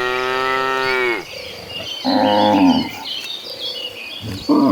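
Cattle mooing: a long call that falls away about a second in, a shorter, louder moo around two seconds in, and a brief one near the end. Fainter high chirps can be heard between the calls.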